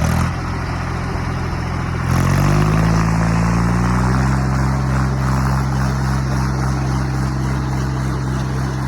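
Tractor diesel engine revving up under load in a tug-of-war pull. It rises in pitch about two seconds in, then holds steady at high revs.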